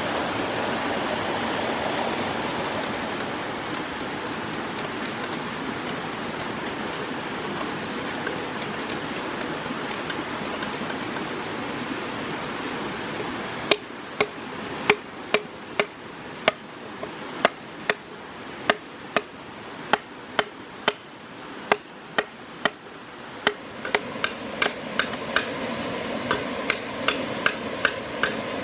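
A steady rushing noise for roughly the first half, then a run of sharp knocks, irregular at about one or two a second, coming faster with a slight ring near the end.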